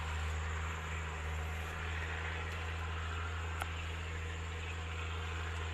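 Steady outdoor background: a constant low hum under an even hiss, with a single small click about three and a half seconds in.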